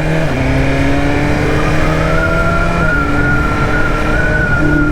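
BMW S1000RR inline-four motorcycle engine running while ridden, its pitch climbing slowly through the first few seconds and then holding steady, over low rumbling road and wind noise.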